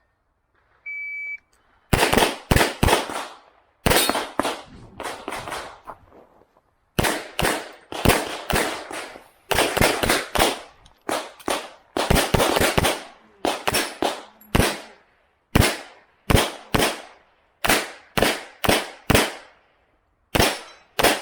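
A shot-timer beep about a second in, then an HPS/STI 2011 pistol in .40 S&W fires dozens of shots in quick pairs and strings, with short breaks between groups, to the end.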